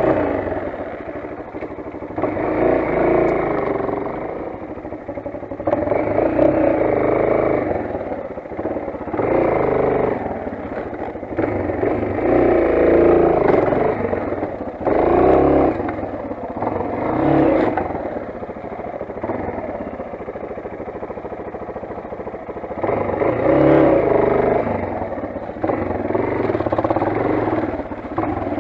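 Motoland XR 250 enduro motorcycle's single-cylinder engine being ridden, revving up and falling back again and again, swelling every few seconds.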